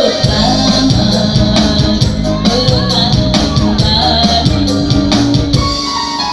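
Music played on a Yamaha PSR-S970 arranger keyboard, with a steady beat and percussion.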